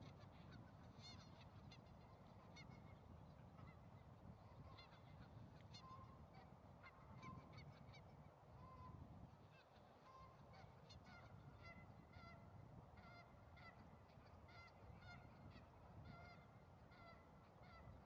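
Faint birds calling: many short honking calls repeating throughout, over a low background rumble.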